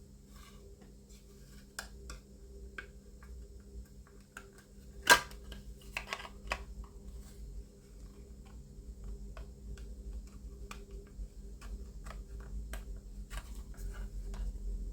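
Small plastic model-kit parts being handled and pressed together: scattered light clicks and taps, with one sharp click about five seconds in.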